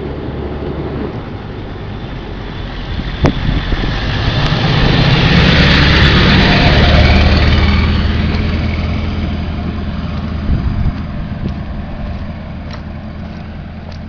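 A motor vehicle drives past close by: engine and tyre noise grow louder to a peak about halfway through, then fade away. A single sharp click sounds about three seconds in.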